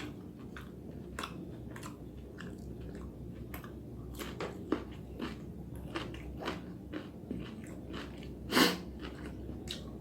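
A person chewing and eating spicy vegetable noodles close to the microphone: a string of small clicks and smacks, with one louder, longer noise near the end.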